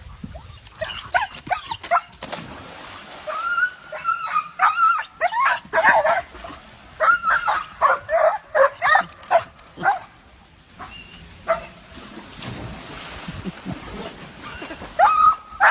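A dog whining and yipping in runs of short, high-pitched cries, thickest from a few seconds in, then a quieter stretch before a few more cries near the end.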